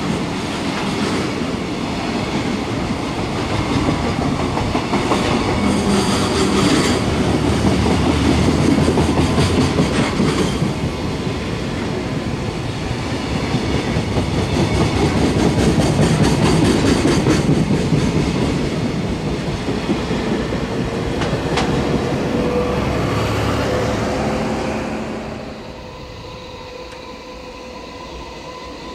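Long freight train of container wagons rolling past, its steel wheels rumbling and clattering on the rails with the noise rising and falling. The noise drops off sharply near the end.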